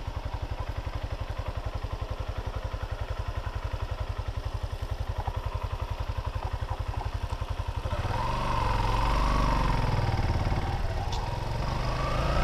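Motorcycle engine running at low revs with an even putter, then picking up under throttle about eight seconds in, louder, its pitch rising and falling.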